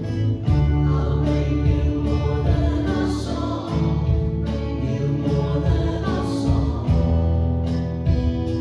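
Worship band music: strummed acoustic guitar with sung vocals, a contemporary Christian worship song.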